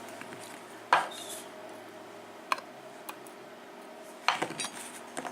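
Small metal lock parts clicking and clinking as they are handled: one sharp click about a second in, another around two and a half seconds, then a run of light clicks near the end.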